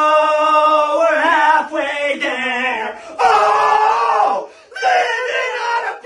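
Loud, long cries with a wavering pitch, three or four in a row, with short breaks about three and about four and a half seconds in.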